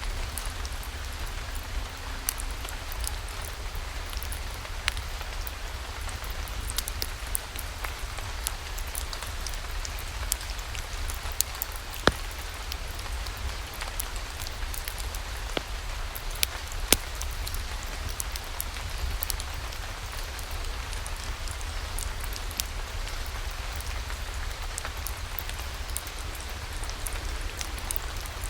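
Steady rainfall, an even hiss over a low rumble, with scattered sharp ticks and pops. The loudest pops come about twelve and seventeen seconds in.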